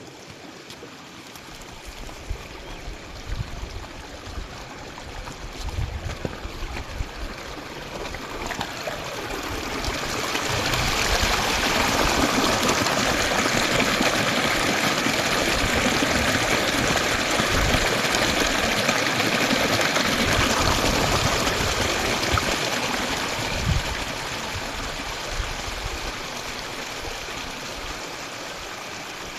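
Rushing water of a stream, swelling to a steady loud rush in the middle and easing off toward the end, with irregular low thuds underneath.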